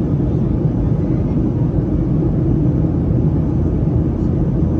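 Steady low rumble of a Boeing 737-700's CFM56-7B engines and rushing airflow, heard inside the passenger cabin during the climb-out after takeoff.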